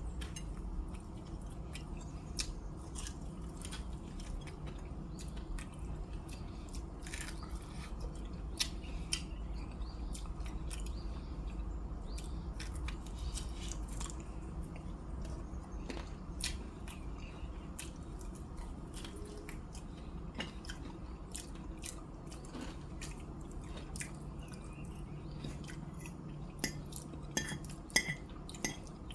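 A person chewing and biting into fried chicken wings, with irregular small clicks and smacks.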